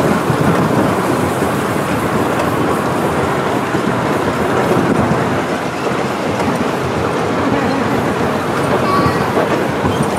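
Miniature steam train running steadily along its track, its wheels clattering on the rails.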